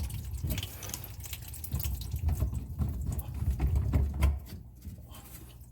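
Water splashing and dripping in a bathroom sink and its drain, with irregular knocks and clicks of handling. It goes quieter about four and a half seconds in.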